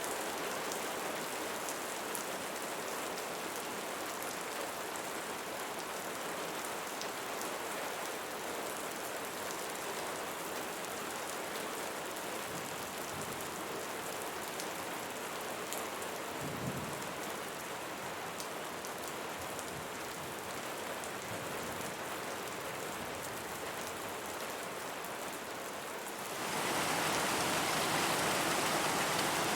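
Steady rain falling, with individual drops ticking, and a brief low thump just past the middle. Near the end the rain turns suddenly louder and denser.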